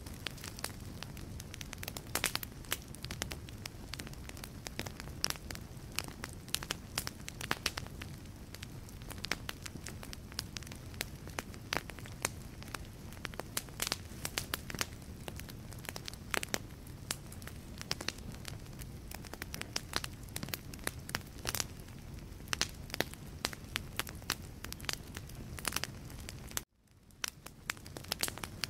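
Wood fire burning in a fireplace: logs crackling with frequent sharp pops over the steady low rumble of the flames. The sound cuts out suddenly near the end and fades back in.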